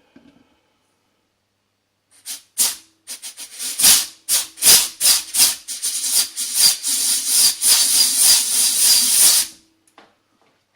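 Compressed air hissing in a rapid, irregular series of loud bursts for about seven seconds, starting about two seconds in, with a faint steady hum under it: air pressure fed to the KKK K03 turbo's wastegate actuator to test whether it opens.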